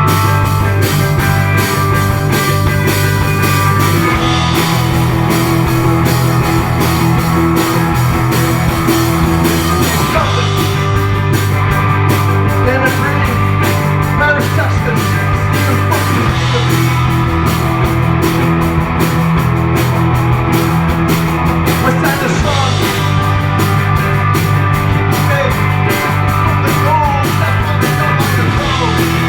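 Live indie rock band playing loud and steady: distorted electric guitars over a sustained bass line, with a drum kit keeping a steady beat on cymbals and snare.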